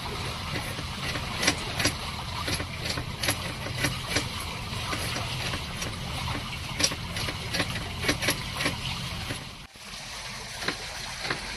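Water rushing and lapping along the hull of a sailboat motoring on quiet electric motors through smooth water, with a low steady hum and many small splashes and ticks. The sound drops out abruptly for a moment a little before ten seconds in.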